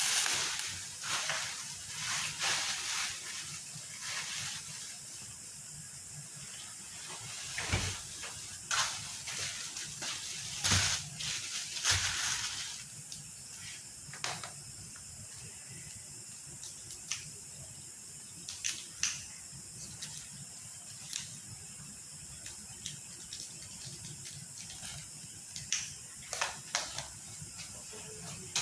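Pot of halang-halang chicken soup hissing and steaming on the stove as it comes to the boil, with scattered clicks and knocks of utensils. The knocks are loudest about eight to twelve seconds in.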